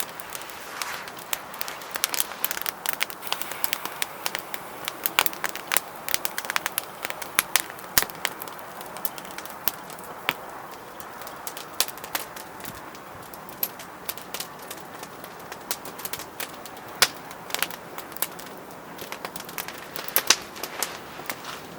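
Wood fire crackling in a Solotour fire pit: irregular sharp pops and snaps over a low steady hiss of burning.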